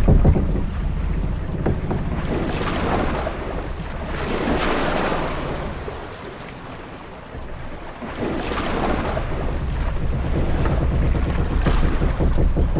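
Sea ambience aboard a sailing ship: wind and a low steady rumble, with waves washing against the hull in swells every few seconds. There is a quieter lull midway, and a few faint creaks or knocks near the end.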